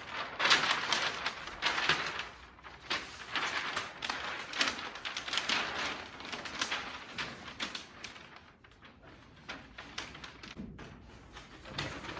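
Hand sanding with 400-grit wet-or-dry paper on a soft block over spot putty on a painted steel truck bed, a gritty hiss in back-and-forth strokes about once a second that ease off briefly past the middle.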